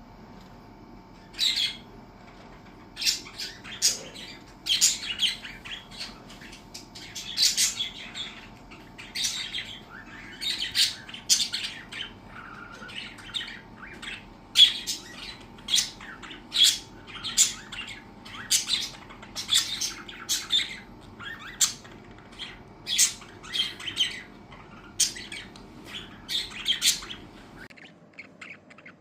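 Pet budgerigars chirping and squawking in a rapid run of short, sharp, high calls, one or two a second.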